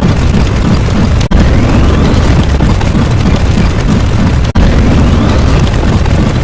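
Loud, continuous explosion-like rumbling sound effect. It cuts out for an instant about every three seconds and restarts identically each time, so the same clip is being repeated.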